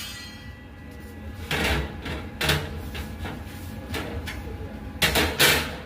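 Steel grill parts being handled and fitted together: a few separate clunks and knocks of metal on metal, the two loudest close together near the end.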